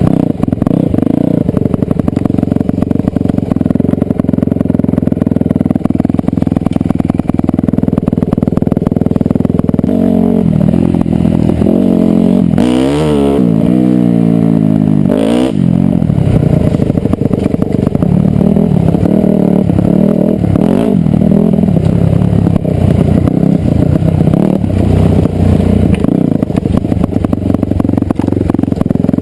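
Dirt bike engine running under load, holding a fairly steady pitch for about ten seconds, then revving up and down with quick throttle changes, with a couple of sharp knocks midway.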